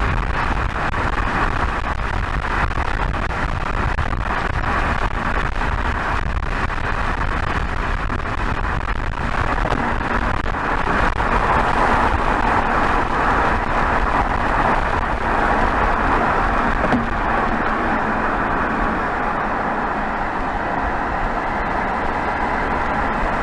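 BMW 320xd G21's 2.0-litre four-cylinder turbodiesel (B47D20), heard at the tailpipe, running steadily at highway cruising speed under a wash of wind and tyre noise. It grows a little louder about halfway through, then settles back.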